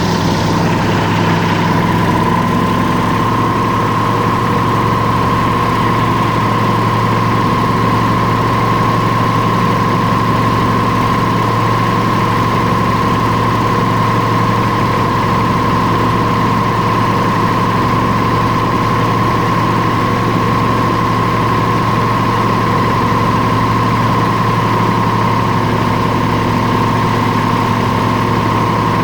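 Airboat's engine and propeller running steadily under way, a loud continuous drone that rises slightly in pitch in the first couple of seconds and then holds steady.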